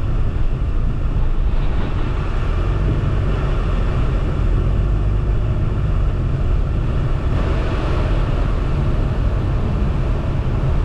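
Strong inflow wind rushing into the storm, buffeting the car and microphone with a steady, heavy rumble.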